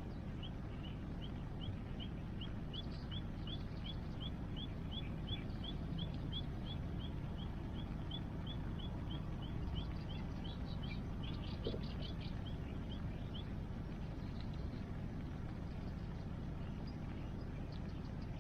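A bird calling a fast, even series of short rising chirps, about three a second, that stops about two-thirds of the way through. Underneath runs a steady low rush of water and rain.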